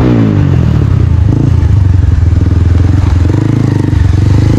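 Bajaj Pulsar motorcycle engine running through a newly fitted aftermarket exhaust silencer, loud and deep; the revs drop near the start, then it runs steadily.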